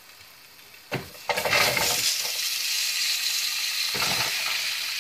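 Chopped zucchini tipped from a glass bowl into a hot pan of melted butter: a knock about a second in, then sudden loud sizzling that keeps on as the zucchini fries.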